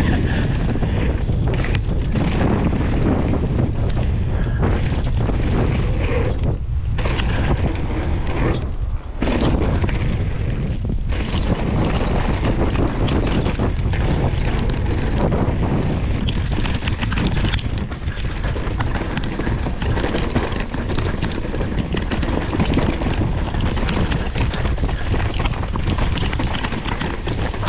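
Mountain bike descending fast over rough trail: wind buffets the microphone and the tyres and frame rumble and rattle over the bumps, with brief lulls about 7 and 9 seconds in.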